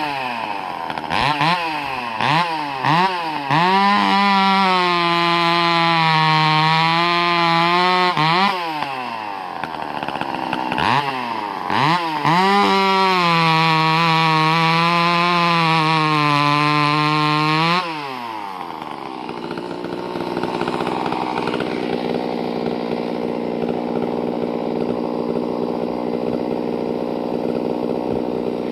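Pioneer P41 two-stroke chainsaw fitted with an upgraded muffler, revved in several quick blips and then held at full throttle for about four seconds. It drops back, is blipped and held wide open again for about five seconds, then settles to a steady idle for the last ten seconds.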